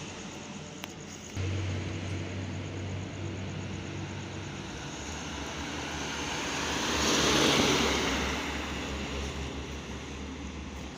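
Truck engine droning low, starting abruptly about a second and a half in. Vehicle noise swells to its loudest at about seven and a half seconds as it passes, then fades.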